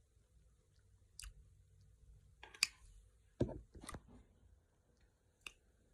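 Mouth-close eating of a raw cucumber salad: about five short, sharp crunches and clicks spread out, with quiet between them.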